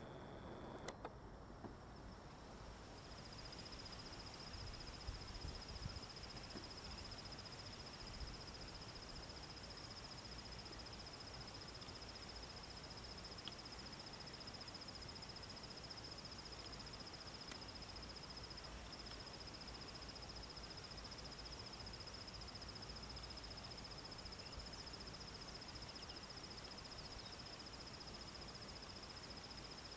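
Faint, steady high-pitched insect trill. It drops out briefly near the start and then runs on unbroken. A single sharp click comes about a second in.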